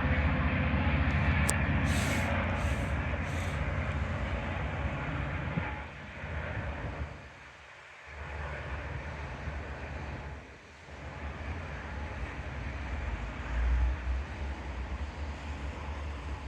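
Train running past with a loud, steady low rumble that eases off about six seconds in, dips briefly twice and then carries on, with a few short high clicks early on.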